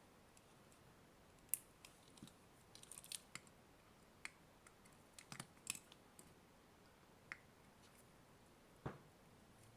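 Faint, scattered sharp clicks and light taps, some in quick little clusters, from small hard plastic parts of an AC adapter being handled and fitted together.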